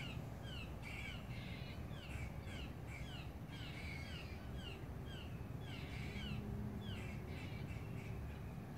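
Birds calling over and over in short, quickly falling notes, two or three a second and irregularly spaced, over a steady low background rumble.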